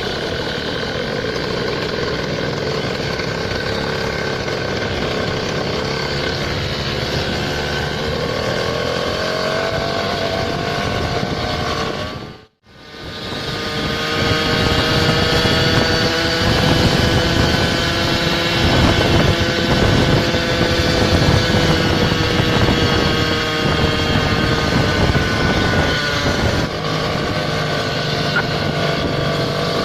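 Small motor-scooter engine running under way, its pitch slowly rising and falling with the throttle. The sound drops out briefly about twelve seconds in, then returns louder and rougher.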